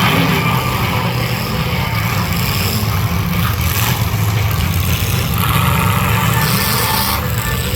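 Demolition derby cars' engines running together in a loud, steady low rumble.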